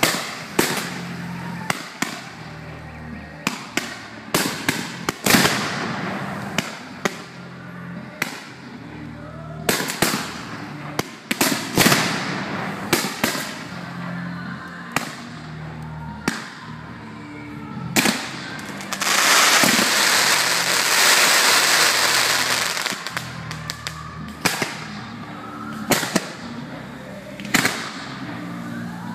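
Fireworks display: a run of sharp shell bursts and bangs, one or two a second, with sparks crackling. For about four seconds in the latter half, a dense, loud crackling hiss fills in between the bangs.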